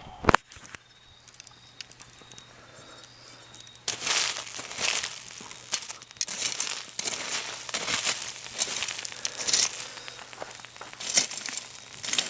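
A bonfire crackling: a couple of sharp cracks at the start, then, about four seconds in, a dense run of crackling and crinkling as it burns.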